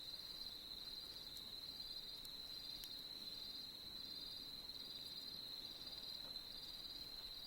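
Crickets trilling faintly and steadily, one continuous high trill with a second insect's pulsed chirp laid over it in short repeated bursts.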